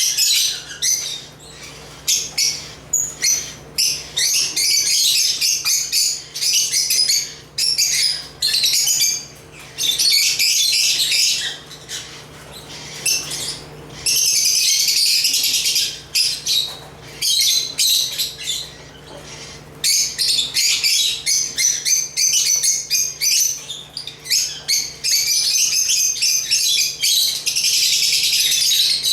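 African lovebirds (Agapornis) chirping and chattering in rapid, high-pitched bouts of one to three seconds, broken by short pauses.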